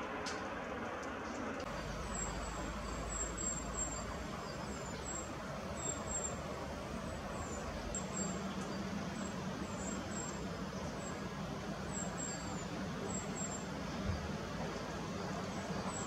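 Steady rumble of road traffic, with faint, very high short chirps of small birds scattered through it.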